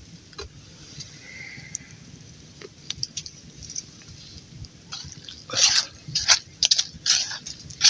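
A person eating hot instant noodles: a few faint clicks, then a run of short slurps and mouth noises in the second half.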